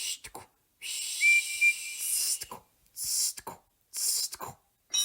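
Cartoon steam locomotive sound effects: short hissing steam puffs at a slow, uneven rhythm, with a brief high whistle about a second in.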